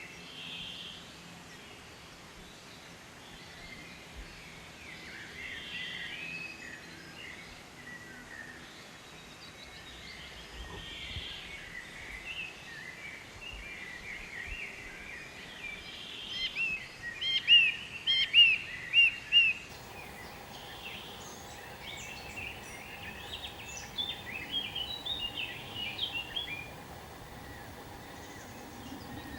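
Several songbirds chirping and singing over a steady background of outdoor noise. The loudest part is a run of rapid, sharp chirps a little past the middle, followed by another cluster of chirps later on. A faint steady hum comes in about two-thirds of the way through.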